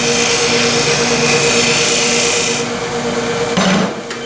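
Wood lathe running with a steady hum while a carbide turning tool with a negative-rake cutter cuts the spinning wooden blank, making a continuous hissing shave. The cut eases off after about two and a half seconds, and a short loud scrape follows near the end.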